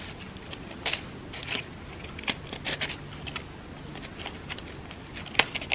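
Crepe paper crackling and rustling in short, irregular crinkles as the end of a paper petal is twisted by hand, with one sharper crackle near the end.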